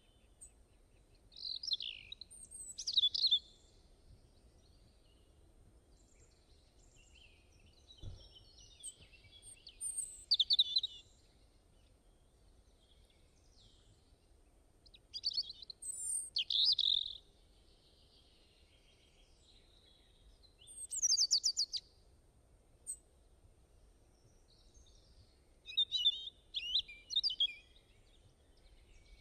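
A songbird singing short, high-pitched phrases of one to two seconds, five times with pauses of several seconds between, one of them a fast rattling trill; faint steady background noise underneath.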